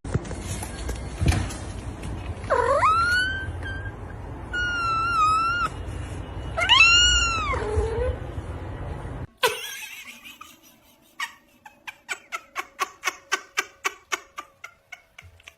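A cat meowing three times, long drawn-out meows that rise and bend in pitch, over a steady background rumble. About nine seconds in the sound cuts off suddenly, and a run of short clicks follows at about three a second.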